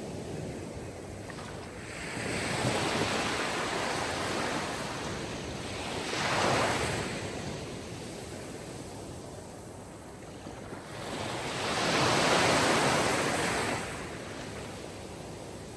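Sea surf: waves washing in and drawing back in slow swells, with the biggest surges about six and a half seconds in and again around twelve seconds.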